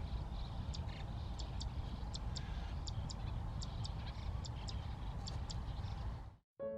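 Zitting cisticola calling: a sharp, high, clicking note given in quick pairs, repeated evenly about every two-thirds of a second, over a steady low rumble. The sound cuts off near the end and piano music starts.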